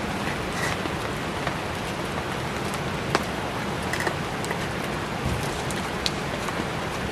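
Heavy rain falling steadily, with a few sharp crackles from a wood campfire, one about three seconds in and another about six seconds in.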